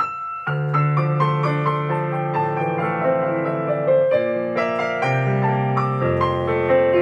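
Piano playing a slow song introduction: a single struck note, then full chords over a low bass line from about half a second in, with the harmony changing every second or two.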